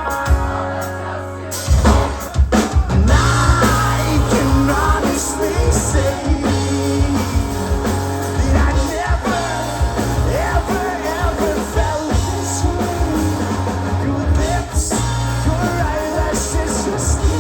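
Rock band playing with drum kit, guitars and bass, with a wavering melody line over the top.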